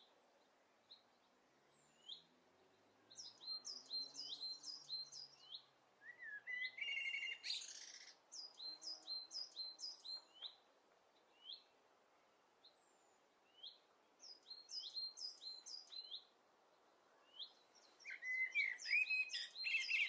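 Small birds chirping: runs of quick, short, high chirps, several a second, with a warbling phrase about six seconds in and again near the end.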